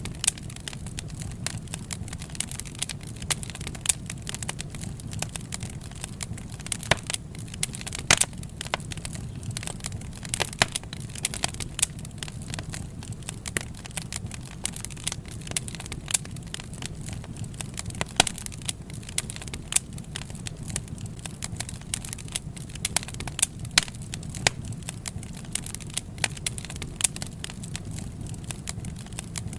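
Wood fire burning, with frequent sharp, irregular crackles and pops over a steady low rumble of the flames.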